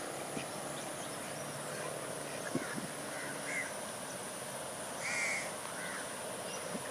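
Wetland birds calling, a scatter of short harsh calls over a steady background hiss, the loudest about five seconds in.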